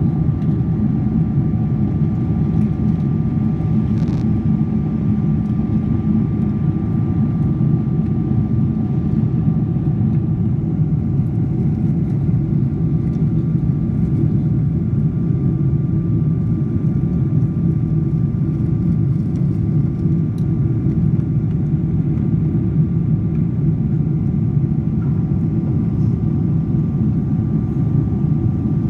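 Steady drone of an airliner in flight: engine and airflow noise that is heaviest in the low end, with a faint steady whine on top.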